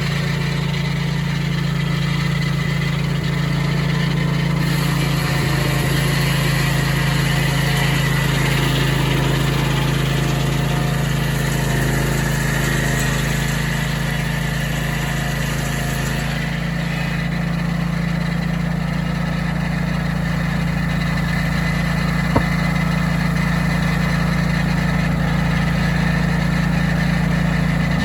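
Sawmill's engine running steadily while the mill saws a cottonwood log into lumber; a high hiss joins it about 5 seconds in and fades about 16 seconds in.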